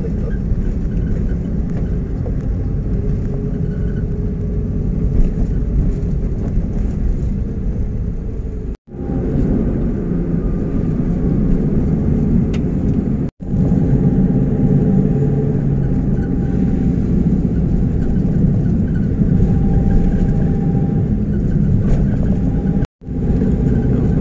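A car running, with steady engine and road noise heard from inside or close by, broken by three abrupt cuts.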